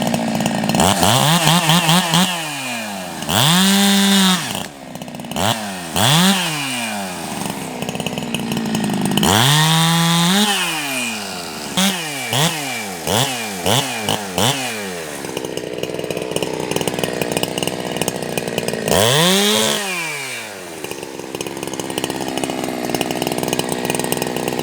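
Ported Jonsered 2165 65 cc two-stroke chainsaw cutting wood. Its engine repeatedly revs up to a high pitch and drops back, with a run of about five quick throttle blips about halfway through.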